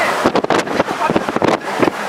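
Strong wind buffeting the microphone in uneven gusts, over a steady rush of noise.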